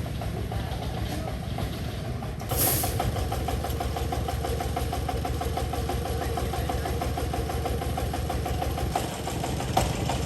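An engine running steadily with an even, rapid firing rhythm. About two and a half seconds in it gets louder, with a short burst of hiss, and then runs on at the higher level.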